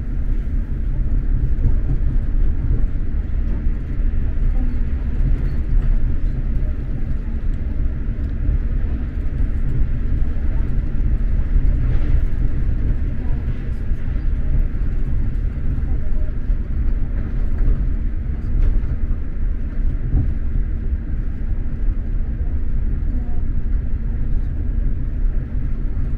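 X2000 high-speed train running at speed, heard from inside a passenger carriage: a steady low rumble of the wheels and running gear on the track.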